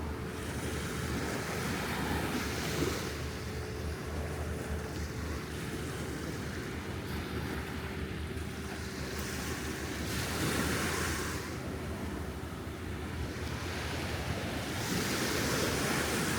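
Small surf breaking and washing up the beach, swelling louder three times, with wind buffeting the microphone. A faint steady hum runs underneath.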